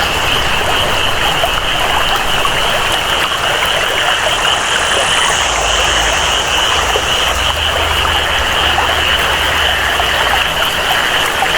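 Rainforest ambience: steady rain and flowing water with a continuous high-pitched animal chorus over it. A fainter, higher sound joins for a couple of seconds in the middle.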